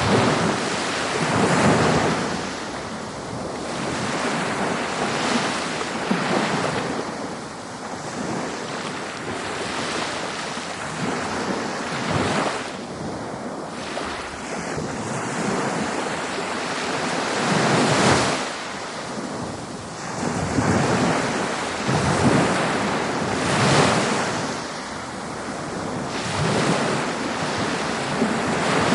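Ocean waves breaking and washing up on a beach, a hiss of surf that swells and fades every few seconds, with wind on the microphone.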